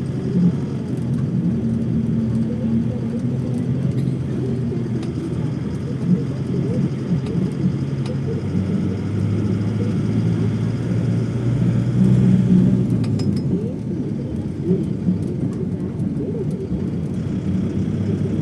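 Steady low vehicle rumble with an engine hum that fades out about thirteen seconds in.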